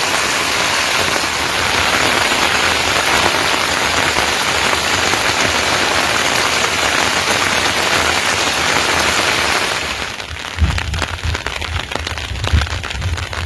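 Steady heavy rain falling. About ten seconds in it gives way to a quieter sound with irregular low thuds and crackling.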